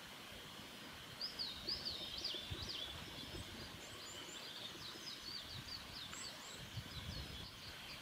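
A bird singing a rapid run of high, varied chirping notes that starts about a second in, over a steady outdoor hiss.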